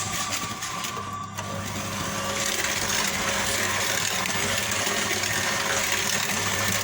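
A small electric kitchen appliance motor running steadily with a continuous whir, starting about a second and a half in as background music fades out.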